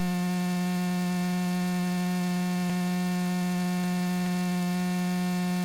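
Steady electrical hum on the aircraft's intercom audio feed between transmissions: one unchanging low tone with a ladder of overtones over faint hiss.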